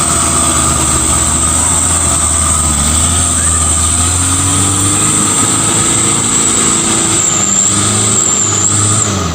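Truck diesel engine running hard under load, its pitch slowly rising and falling, with a steady high whine over it; the sound cuts off abruptly at the end. It is the engine working to get a stuck, loaded palm-oil truck moving.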